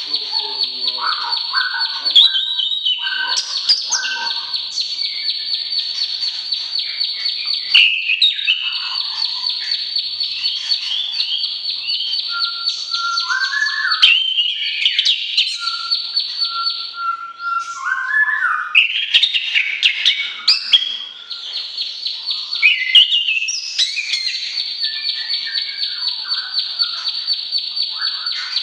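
Songbird song for training cage birds (masteran): long, rapid, high trills held for several seconds, broken up by varied short whistled phrases and chirps, then returning to the trill near the end.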